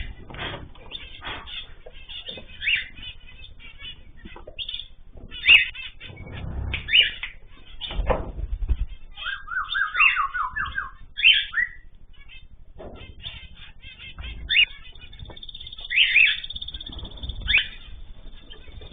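Ornamental cage birds chirping and calling over one another, with squawks and fluttering wings.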